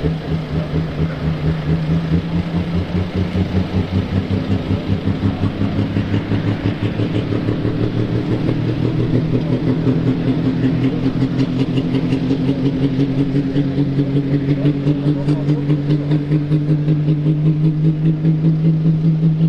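Ursus tractor's diesel engine running hard under load as it pulls the weighted sled, its note slowly rising in pitch with a pulsing beat.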